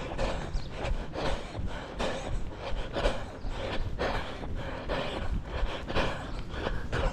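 A runner's heavy panting breaths, coming in a steady rhythm about twice a second in time with running strides, over a low rumble of movement noise.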